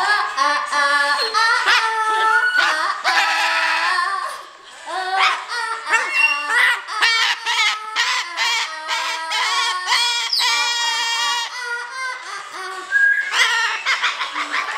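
Pet parrot singing: a quick string of pitched, mimicked sung notes, some held and some sliding, broken by short clicks.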